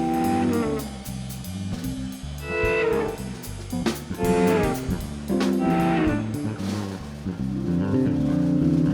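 Live jazz-rock band playing, with an electric guitar taking the lead over bass and drum kit.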